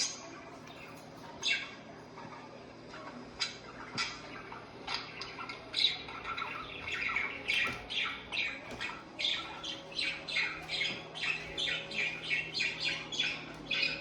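Budgerigar (parakeet) chirping and squawking: a few scattered short calls, then from about six seconds in a quick, chattering run of short calls, roughly two a second.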